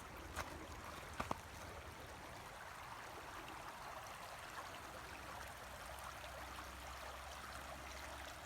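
A low, clear river flowing: a steady rush of running water, with a few short clicks in the first second or so.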